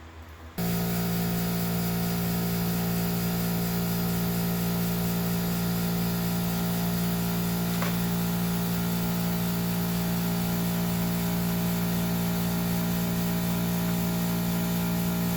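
A motor-driven machine switches on abruptly about half a second in and runs with a steady, unchanging hum and hiss.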